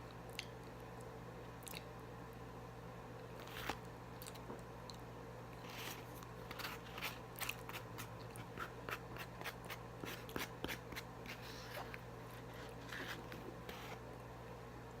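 A person eating close to the microphone: scattered small clicks and crunches of chewing, sparse at first and coming thick from about six seconds in, over a steady low electrical hum.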